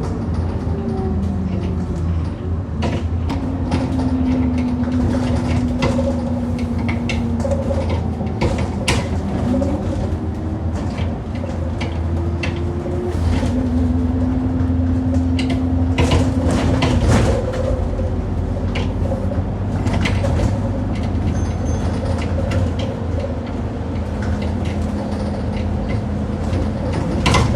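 Service bus running, heard from inside the cabin: a steady engine hum and a transmission whine that rises and then holds, with repeated loud knocking and rattling, several clusters of it, as the bus goes over potholes.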